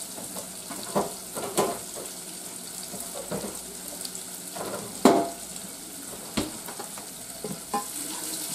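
Sausage, onions, garlic and butter sizzling steadily in a saucepan, with a few scattered knocks and clinks, the loudest about five seconds in.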